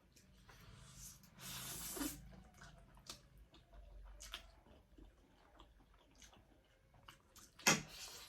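Close-miked eating of spicy instant noodles: small wet chewing and mouth clicks, with a longer slurp about a second and a half in and one sharp knock near the end.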